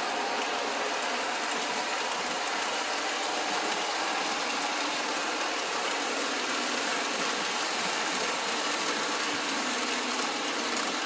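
Model passenger trains running on the layout's track: a steady whir of the locomotive motors and wheels rolling on the rails.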